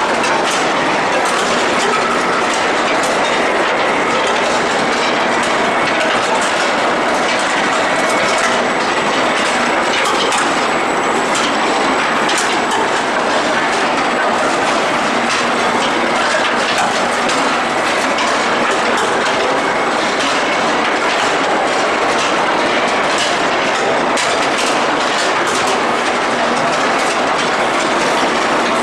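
Steady, dense clatter of metal on metal from a steel-ball forging production line, full of quick clicks and knocks, with a faint thin high whine underneath.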